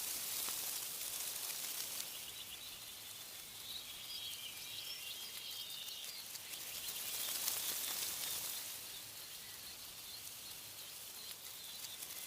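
Wind rustling through tree leaves, swelling in two gusts, one near the start and one past the middle, while small birds chirp and twitter in between.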